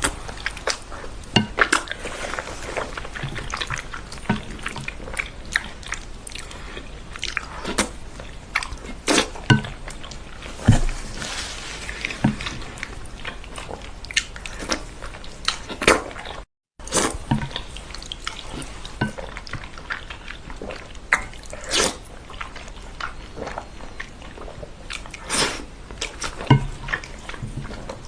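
Close-miked eating sounds of spicy Buldak fire chicken noodles: wet chewing, irregular sharp smacks and slurps. The sound cuts out briefly just past halfway.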